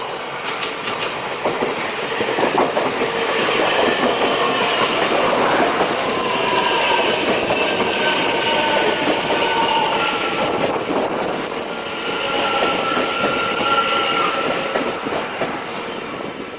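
A train running past on the at-grade Taichung line, its wheels clicking regularly over the rail joints, with a high steady wheel squeal above the rumble.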